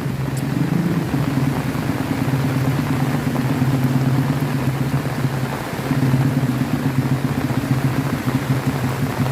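A motor vehicle engine idling steadily over the hiss of falling rain.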